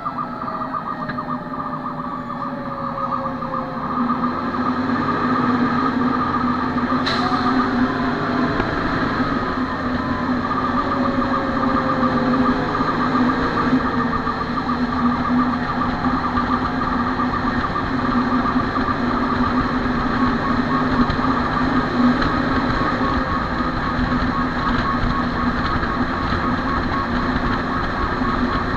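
Fire engine running on the road with a steady drone, while a siren winds down in falling pitch over the first few seconds. A sharp click comes about seven seconds in.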